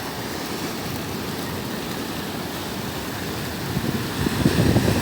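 Rough sea surf: waves rushing and breaking with a steady wash, and wind buffeting the microphone. It swells to a louder, rumbling crash from about four seconds in.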